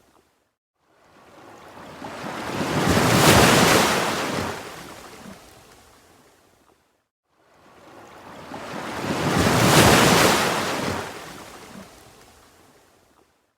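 Ocean waves breaking twice, each surge of surf building to a peak and then washing away, with a moment of near quiet between them.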